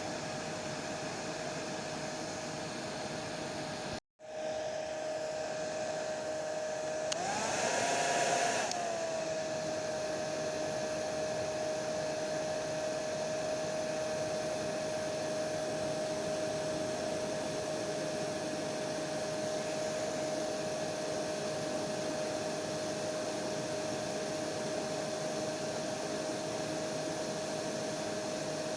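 Hair dryer running steadily, an even rush of air with a constant whine. About four seconds in it cuts out for an instant and comes back, swelling briefly with a rising whine before settling to its steady run.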